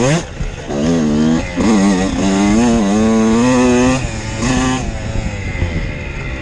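Dirt bike engine revving: the pitch climbs and drops a few times, holds steady for about two seconds, gives a short burst, then falls to a quieter, lower running sound for the last second or so.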